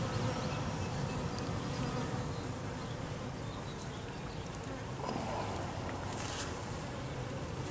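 Honeybee colony buzzing steadily in an open hive; the beekeeper finds the bees a little fussy in the heat.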